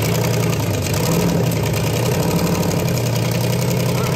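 Rat rod's engine idling with a steady, fast-pulsing drone as the car creeps off a trailer under its own power.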